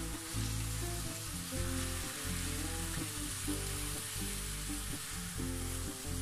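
Chicken pieces sizzling as they fry in a hot pan while they are stirred with a wooden spatula, a steady hiss. Background music plays underneath.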